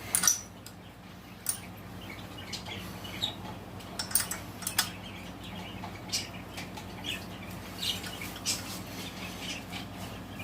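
Scattered light metallic clinks and taps of hand tools and sockets being handled, over a steady low hum.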